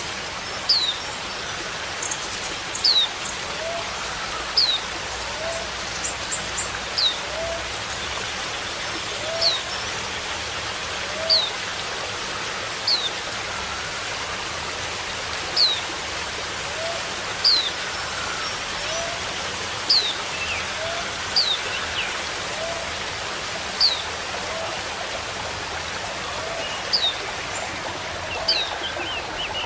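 Wild white-eyes (pleci) calling: thin, high notes that slide down in pitch, repeated every second or two. Softer, lower short notes come in runs about once a second, over a steady rushing background noise.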